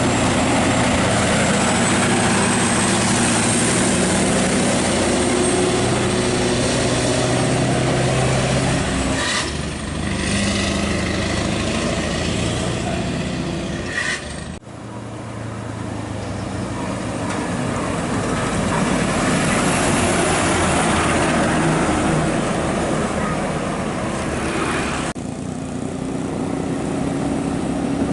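Scania R580 heavy truck driving on the road, its V8 diesel running steadily under loud road and wind noise. The sound breaks off sharply about halfway through and builds up again, with another sudden change near the end.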